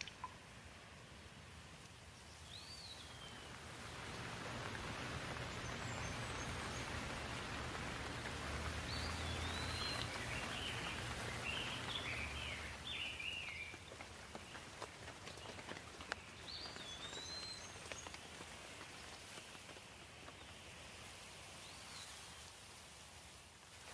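A steady hiss of water, rain or a flowing stream, that swells for several seconds about a quarter of the way in, with birds chirping over it: a few short curling calls and a quick run of them about halfway through.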